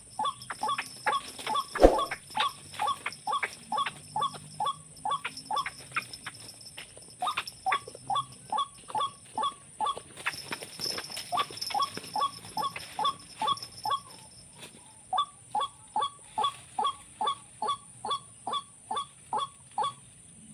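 White-breasted waterhen call: a short 'ruak' note repeated steadily about twice a second, with a brief break about two-thirds of the way through. A single sharp knock sounds about two seconds in.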